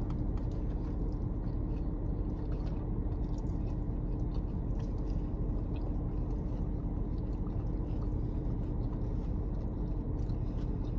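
A person chewing and biting into food, faint small wet ticks over a steady low hum of a car interior that carries a constant drone throughout.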